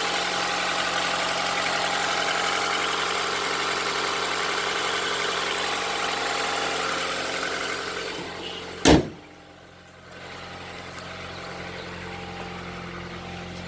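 A 1994 car's air-conditioning blower running at a steady rush over the idling engine. About seven seconds in the rush fades away, a single sharp thump follows, and then only the quieter engine idle remains.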